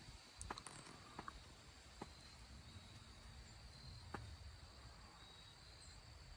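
Near silence: faint outdoor ambience with a steady, thin high-pitched tone and a few soft clicks and taps.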